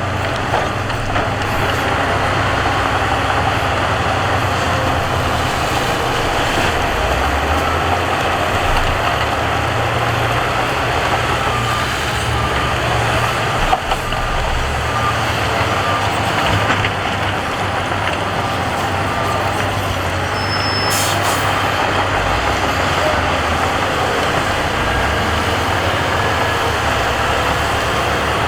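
Diesel engines of heavy earthmoving machines running steadily with shifting engine load, with a reversing alarm beeping at intervals.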